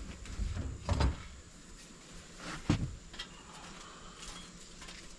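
Scattered knocks and scrapes of hands working at an electrical breaker panel. The loudest knocks come about a second in and just under three seconds in.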